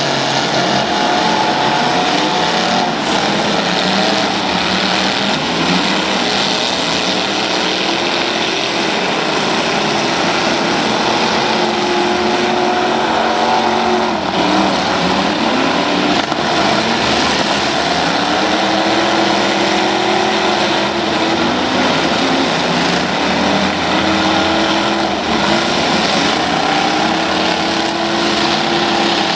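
Several demolition-derby truck and van engines running at once, loud and steady, their pitches rising and falling as they rev up and drop back over a dense roar.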